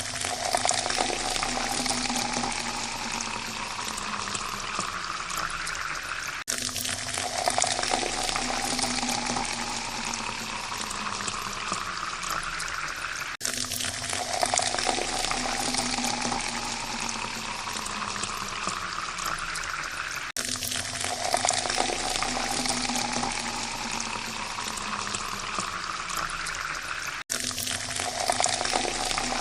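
Water pouring into a glass, the tone of the filling glass rising as it fills. The pour stops briefly and starts again about every seven seconds, four times.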